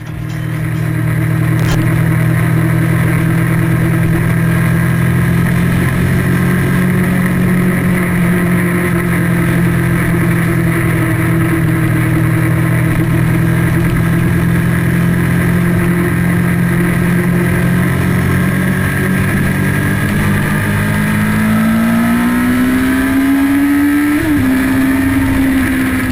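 Motorcycle engine heard from on board, running at steady revs with rushing wind noise. Near the end it revs up, rising in pitch, with a brief break in the pitch just before the end.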